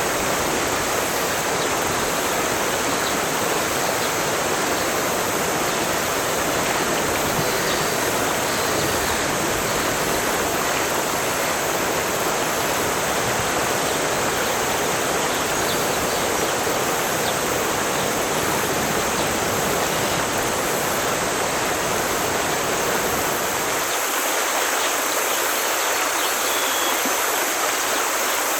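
Forest stream flowing steadily, a full, even rush of water. About 24 s in, its deep low rumble drops away and the sound thins.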